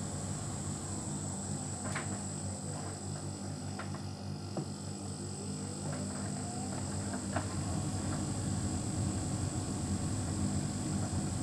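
Hotpoint heat pump tumble dryer running: a steady mechanical hum with a faint high whine, broken by a few light clicks.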